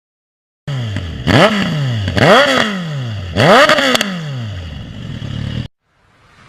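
TVS Apache RTR 200 motorcycle's single-cylinder engine revved three times in quick blips. Each rev climbs sharply and then winds slowly back down before the sound cuts off.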